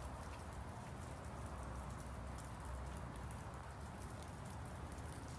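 Light rain falling steadily, a faint even hiss with scattered small drop ticks.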